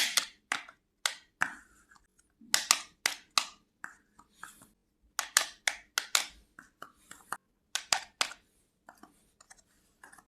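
Miniature toy kitchen pieces being handled and set down: a run of sharp, irregular clicks and taps, roughly two a second, some followed by a brief rustle.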